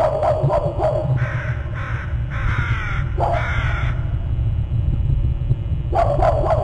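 Crows cawing: a run of four harsh caws in the middle, with more crow calls breaking in at the start and near the end, over a steady low rumble.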